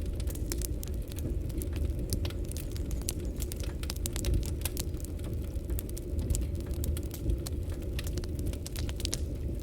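Wood fire burning: a steady low rush of flames with many sharp, irregular crackles and pops from the burning logs.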